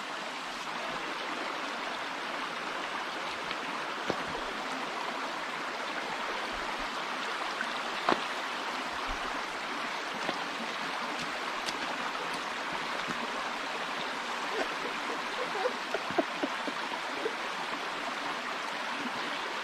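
Forest stream babbling steadily over rocks, with a few brief sharp clicks, the clearest one about eight seconds in and a small cluster near the end.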